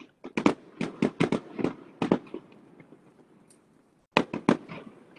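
Fireworks bursting in quick volleys: a string of sharp bangs in the first couple of seconds that fades away, then another quick run of bangs about four seconds in.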